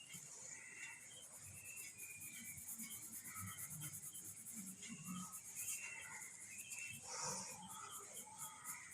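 Graphite pencil rubbing across drawing paper in quick shading strokes, a faint scratchy hiss. Short chirping calls come through faintly over it.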